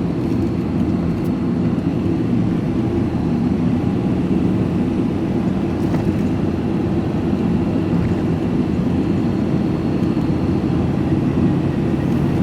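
Vehicle engine and road noise heard from inside the cab while driving at a steady speed: a constant low drone.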